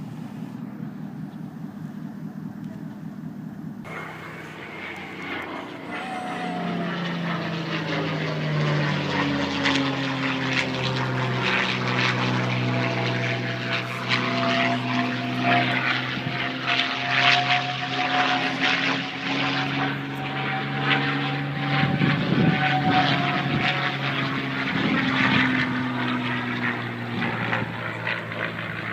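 Propeller airplane engine drone. After a low steady hum in the first few seconds it suddenly grows louder, its pitch falls, and it stays loud with a wavering drone to the end.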